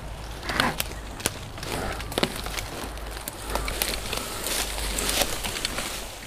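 Electric bike jolting over rough off-road ground: irregular clicks, knocks and rattles, over a low rumble of wind on the microphone.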